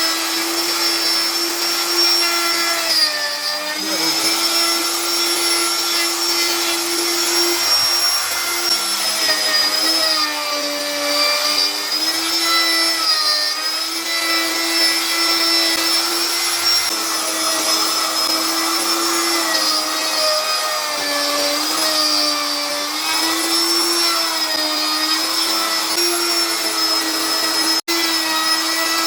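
Electric hand router running at high speed with a steady whine, its pitch sagging briefly and recovering several times as the bit bites into the wood. A very short cut-out in the sound just before the end.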